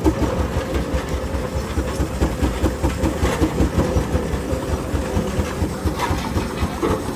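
Frick steam traction engine running, its exhaust chuffing in an even rhythm of about three to four beats a second over a low rumble.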